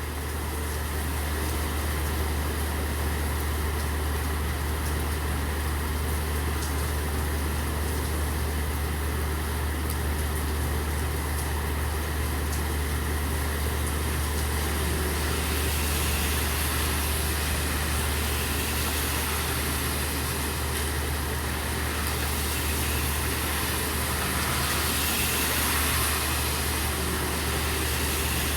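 Steady rain hissing over the low, steady hum of an idling engine. The rain's hiss gets stronger from about halfway through.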